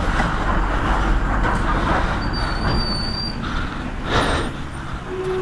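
Road traffic and wind rushing over the microphone of a moving motorcycle, with heavy low rumble. A thin, high steady tone sounds for about a second in the middle, and a short hiss comes about four seconds in.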